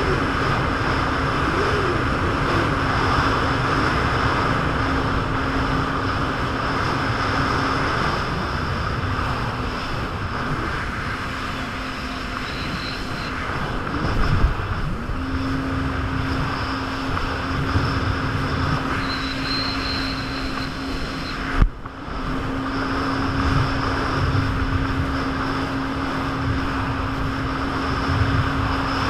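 Personal watercraft (jet ski) engine running at speed under wind and water rush, its steady drone wavering and easing off for a few seconds midway before settling back. One sharp thump about three quarters of the way through.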